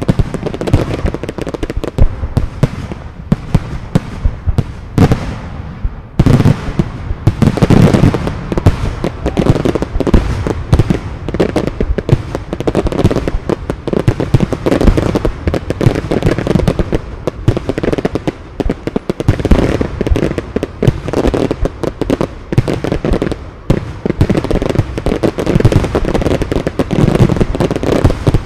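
Fireworks display: many shots and bursts in quick succession, dense and unbroken.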